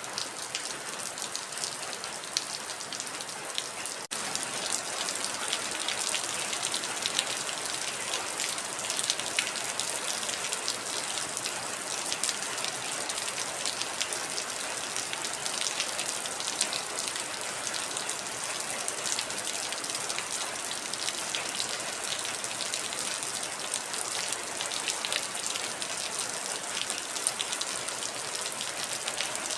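Heavy rain falling steadily, a dense patter of drops hitting surfaces. There is a momentary dropout about four seconds in, after which it runs slightly louder.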